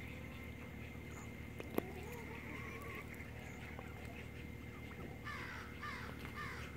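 A bird gives a run of about four harsh, falling calls near the end, over faint chirping. A single sharp click sounds about two seconds in.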